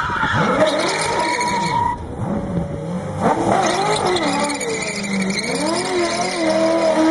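A car's tyres squealing in long, wavering skids, with its engine running underneath; a fresh squeal starts sharply about three seconds in.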